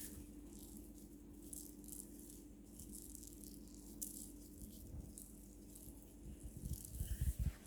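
A budgie's toy ball rattling in quick, irregular clicks as the bird pushes it about, with a few louder dull thumps near the end.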